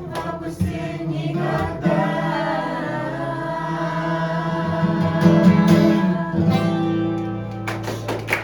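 Several voices singing together with guitar accompaniment, in long held notes.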